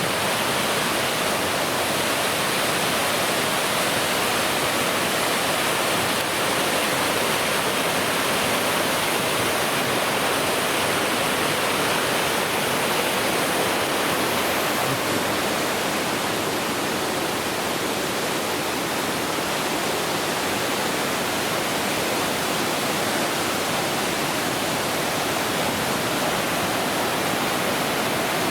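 Waterfall water rushing steadily, an unbroken even sound with no change in level.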